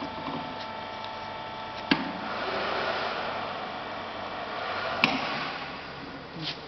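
Hydraulic butt fusion welding machine running: a steady hum with a thin whine, a sharp click about two seconds in after which a hissing rush takes over, and another sharp click about five seconds in.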